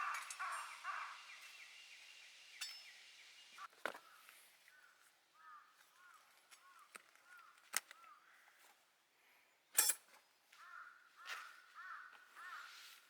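Crows cawing faintly in runs of repeated calls, with a few sharp cracks, the loudest about ten seconds in.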